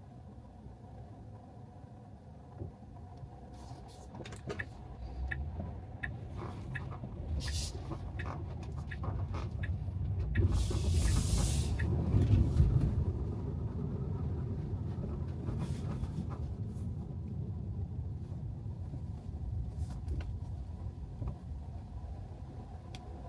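Tyre and road noise of a Tesla Model 3 driving on wet city streets: a low rumble that swells to a peak about halfway through, with a brief rush of hiss at the peak, then eases off. A run of small knocks and clicks comes through the first two-thirds.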